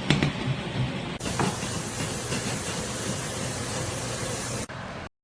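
Food sizzling in a hot wok: a steady hiss with a few faint clicks, broken by abrupt cuts about a second in and near the end.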